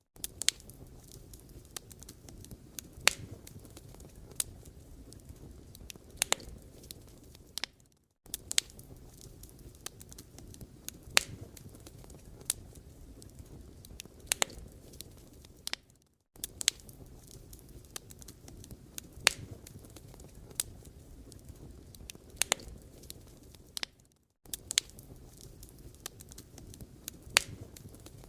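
Firewood burning in an open fire: a steady low rush of flame with frequent sharp crackles and pops from the logs, a few of them loud. The sound drops away briefly about every eight seconds.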